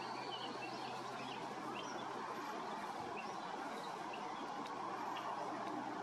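Outdoor ambience: short, scattered bird chirps, faint against a steady background hiss.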